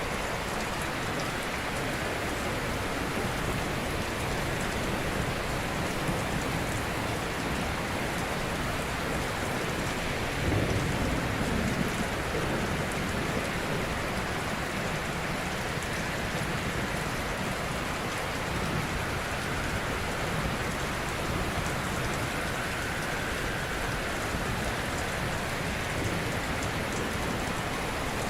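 Ocean surf: a continuous wash of waves breaking gently, swelling a little louder about ten seconds in.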